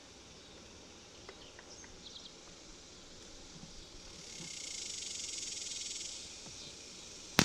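Outdoor insects droning steadily, the drone swelling louder for a couple of seconds midway and then easing off. There are a few faint ticks, and one sharp click right at the end.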